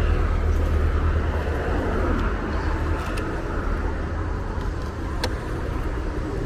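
Steady low rumble of motor vehicles, with a single sharp click about five seconds in.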